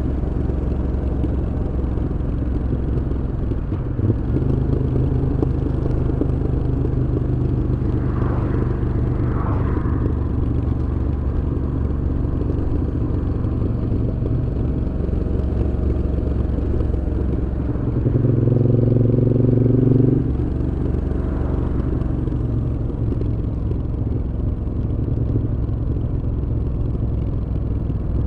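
Moto Guzzi V7's transverse V-twin running through Mistral aftermarket exhausts under way. The exhaust note is steady, then swells louder and clearer for about two seconds around two-thirds of the way through before dropping back.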